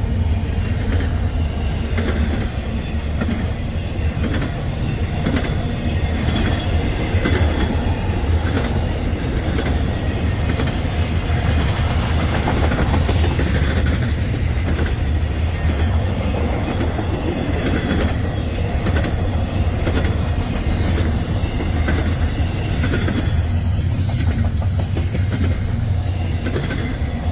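A long freight train rolling past: a steady rumble with wheels clicking rhythmically over rail joints. A high-pitched wheel squeal rises near the end.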